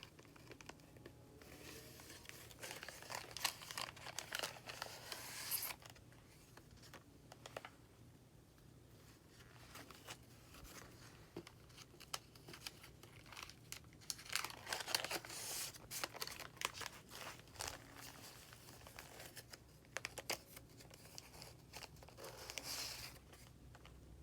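Paper rustling and crinkling as the pages and tucked postcards of a handmade junk journal are handled and turned, in several bursts with quieter gaps between.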